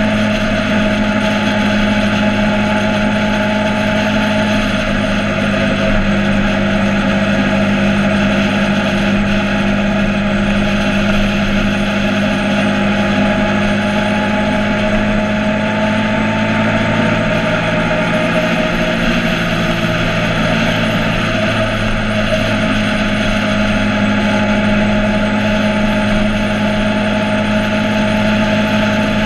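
Motorcycle engine running steadily, its pitch shifting briefly about two-thirds of the way through.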